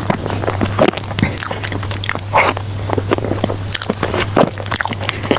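Close-miked chewing and biting of food, with wet mouth smacks and small clicks at an irregular pace over a steady low hum.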